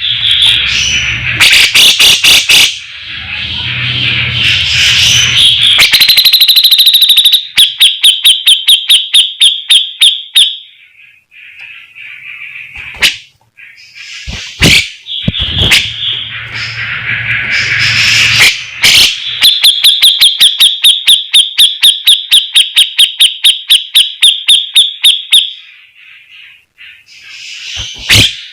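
Grey-cheeked bulbul (cucak jenggot) singing loudly in the 'besetan' style: long runs of rapid, sharply repeated notes at about three a second, broken by harsher, rasping passages and sharp snapping calls.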